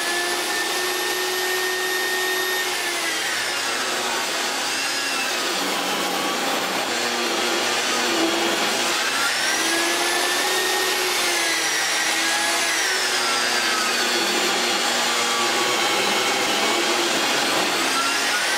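An electric woodworking power tool runs continuously while working hard maple boards for wheelbarrow handles. Its motor whine sags in pitch twice, as it bogs under the load of the cut, then recovers. It stops abruptly near the end.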